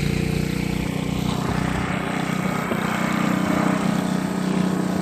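Ariens snowblower engine running steadily under a wide hiss.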